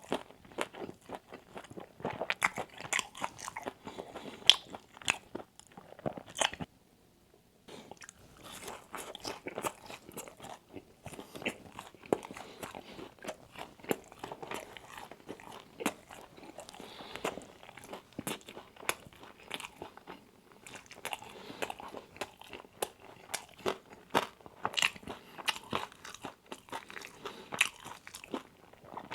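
Close-up mouth sounds of crunching, biting and chewing crispy fried Wingstop chicken wings, a dense run of irregular crackly bites and chews, with a brief silent break about seven seconds in.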